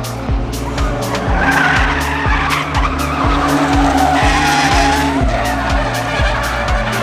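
Music with a steady beat, about two beats a second, over a car drifting: the engine held at high revs and the tyres squealing.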